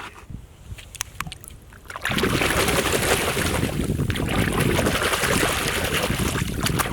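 A few light plastic clicks from toys being handled, then about two seconds in, water starts running hard and steadily, splashing over muddy toys as they are washed.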